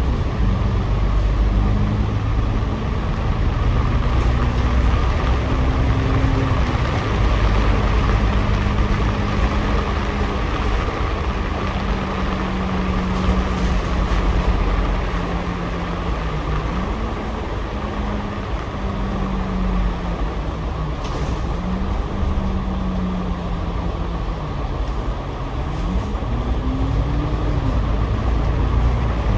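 KMB double-decker bus heard from the upper deck, its engine and drivetrain running with a steady drone and road noise. The drone's pitch holds for a while, then dips and rises a few times as the bus slows and pulls away, with the biggest rise near the end.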